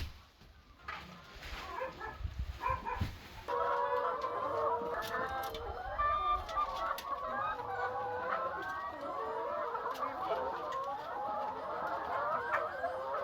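A flock of chickens clucking and calling over one another. The calls are sparse at first and turn suddenly into a dense, louder chorus about three and a half seconds in.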